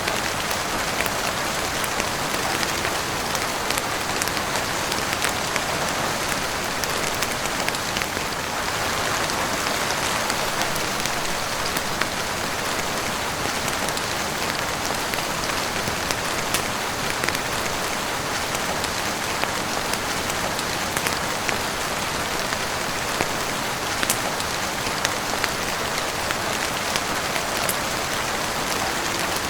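Steady heavy rain falling on a roof and windows, an even hiss with many short sharp ticks scattered through it.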